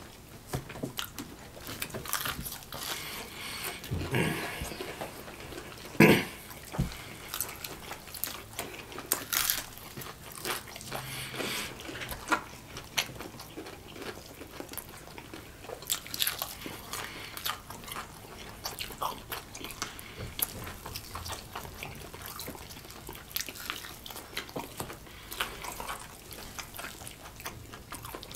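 Close-up chewing and biting of crispy breaded fried chicken legs, with irregular crackles as the crust crunches and the meat is torn off. A single sharp knock stands out about six seconds in.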